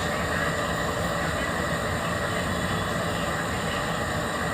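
Steady machine noise: an even rushing sound with a low hum underneath, unchanging throughout.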